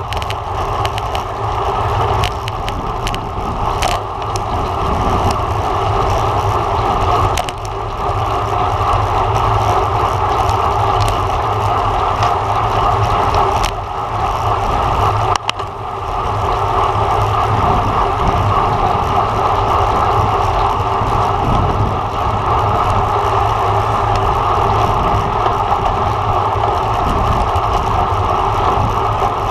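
Steady rush of wind buffeting the microphone, mixed with tyre and road noise, from a road bike ridden at race speed in a criterium. The noise dips briefly a few times.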